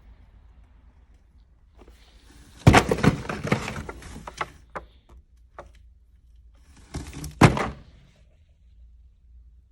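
Two bursts of knocks and thuds, one close group about two and a half seconds in and another about seven and a half seconds in, with a few single clicks between, over a faint low hum.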